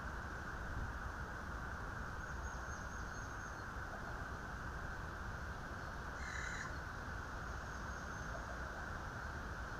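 Steady low outdoor background noise, with one short bird call a little after six seconds in.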